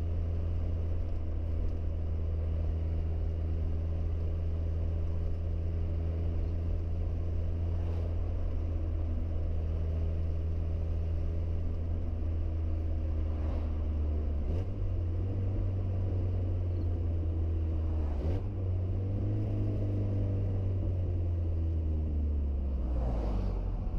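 Car engine running steadily while driving, with a low drone. Its pitch shifts a few times, about 14 and 18 seconds in, and near the end it briefly rises and falls.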